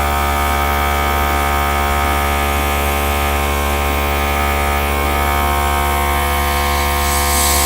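Small electric air compressor of an airbrush-style air gun running steadily, a constant hum with several fixed tones.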